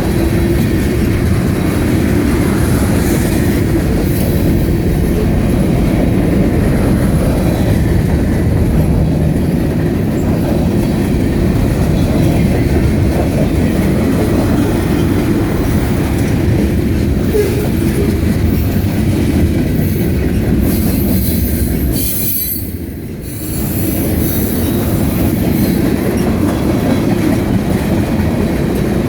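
CSX freight train's cars rolling past on steel wheels, a steady loud rumble and rattle with clattering over the rails. The sound eases briefly about 22 seconds in, then picks up again.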